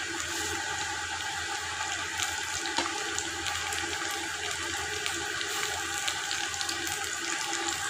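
Sliced onions and green chillies frying in hot oil in a pot: a steady sizzle with small scattered crackles.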